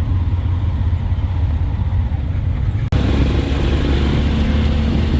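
Engine and road noise of a moving tuk-tuk, heard from on board: a steady low rumble with traffic noise. About three seconds in the sound jumps abruptly and gets louder.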